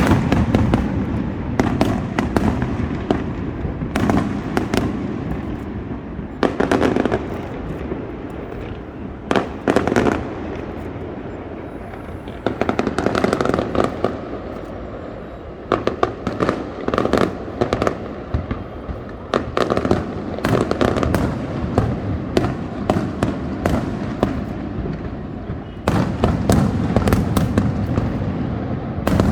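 Aerial fireworks display: shells bursting one after another, with booms and quick crackling volleys over a continuous rumble. The densest volleys come about halfway through and again near the end.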